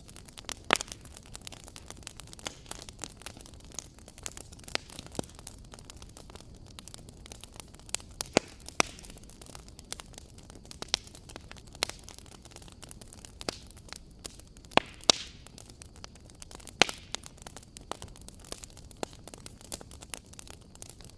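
Wood fire crackling in a fireplace: irregular sharp pops and snaps over a steady low hiss, with several louder pops scattered through.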